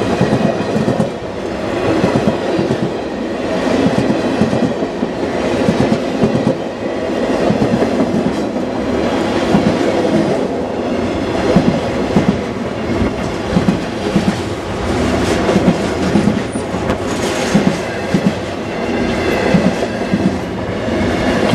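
A train's cars rolling past close by, wheels clattering over the rail joints with a continuous rumble.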